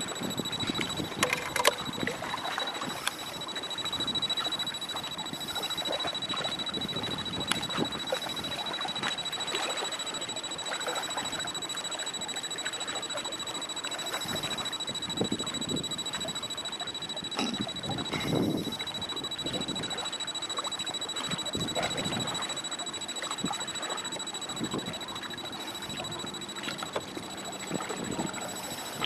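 Strong wind buffeting the microphone, with choppy waves splashing and sloshing and irregular knocks throughout. A thin, steady high whine runs underneath.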